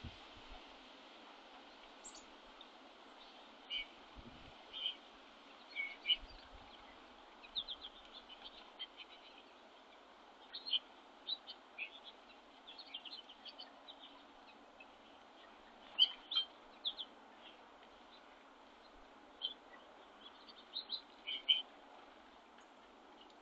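Small feeder birds giving short, scattered chirps and call notes, in quick clusters at times, over a faint steady hiss, with a couple of soft low thumps in the first few seconds.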